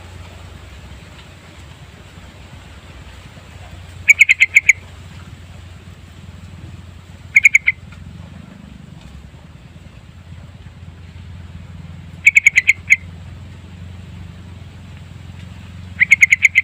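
Yellow-vented bulbul (trucukan) singing in short, loud bursts of four to six quick, clipped notes, four times a few seconds apart. A faint steady low hum runs underneath.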